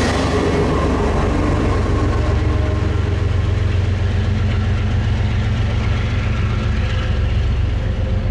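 Train with a diesel locomotive running on the rails: a steady, loud, low engine rumble, with the higher rail noise dying away over the first couple of seconds.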